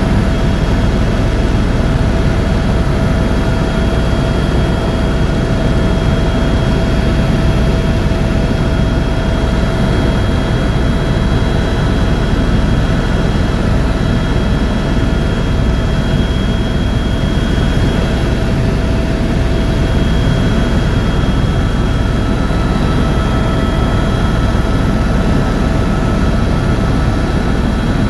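Helicopter in flight heard from inside the cabin: a steady, loud rumble of rotor and turbine engine with a thin, steady high whine over it.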